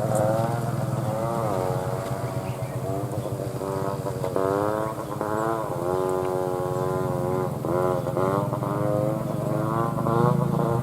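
An engine running, its pitch rising and falling again and again over a steady low hum.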